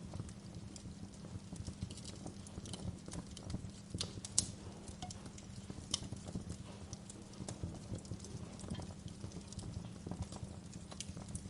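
Wood fire burning in a fireplace, crackling with irregular sharp pops and snaps over a steady low rumble; one louder pop comes a little past four seconds in.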